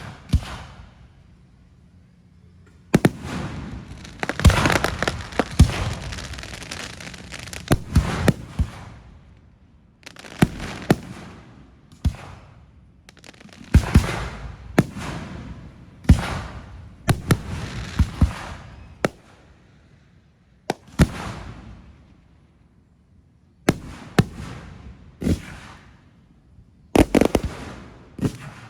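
Aerial fireworks bursting overhead in rapid succession: sharp bangs, each followed by a crackling tail. There are brief lulls, including a short pause about two-thirds of the way through.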